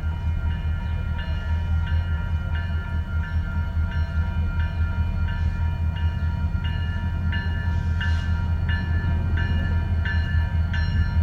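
Union Pacific double-stack freight train passing slowly behind an EMD SD70-series diesel locomotive, with a steady low rumble. A bell rings over it evenly, about three strokes every two seconds.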